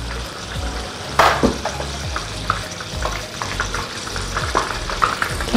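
Banana prawns frying in hot oil in a pan, a steady sizzle with scattered pops and crackles. A sharp knock sounds about a second in, from the plastic tongs against the pan.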